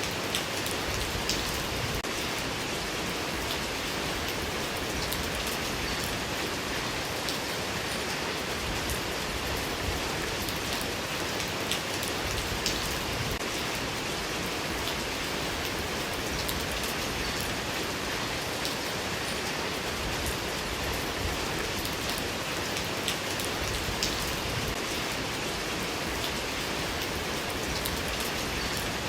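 Steady, continuous rain falling on a surface, with individual drops ticking here and there over an even hiss.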